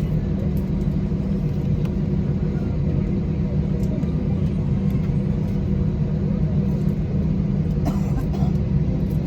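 Steady low rumble of an Airbus A320's IAE engines and airflow, heard inside the passenger cabin, with a few faint steady tones above it.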